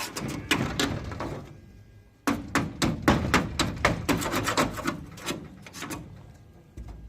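Hammer strikes in quick succession: a short run at the start, then after a brief pause a faster run of about four to five blows a second that dies away about six seconds in.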